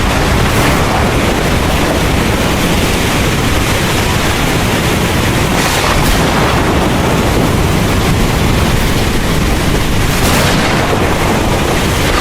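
Heavy rain pouring steadily, with a deep low rumble of thunder underneath.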